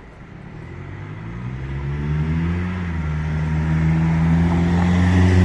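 A road vehicle's engine drawing near and getting louder, its pitch rising a little as it speeds up and then holding steady as it goes by.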